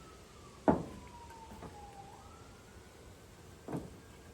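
A distant siren wailing, one clean tone slowly falling, then rising and starting to fall again. Two sharp knocks cut through it, one about a second in and a softer one near the end; the first is the loudest sound.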